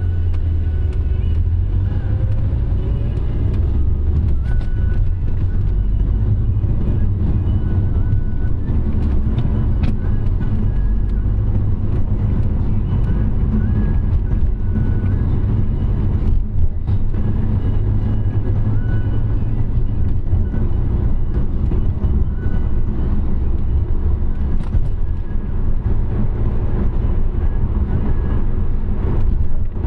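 Car being driven at a steady pace: continuous engine and road rumble.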